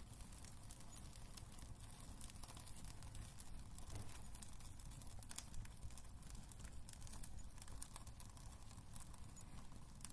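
Wood fire crackling in a fireplace: a steady stream of small snaps and pops over a low rumble of burning, with one sharper pop a little past halfway.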